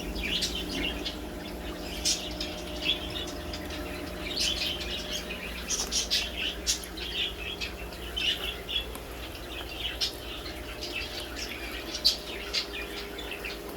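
Many small birds chirping and calling together, short high peeps and tweets overlapping throughout, over a steady low hum.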